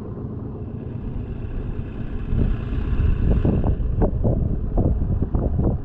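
Small boat's motor running steadily while under way, with wind buffeting the microphone in irregular gusts that grow stronger about two seconds in.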